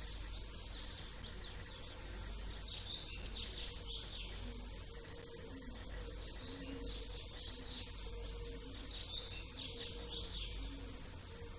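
Small songbirds chirping in quick high clusters that come and go every few seconds, over a steady low background rumble and a faint thin high whine.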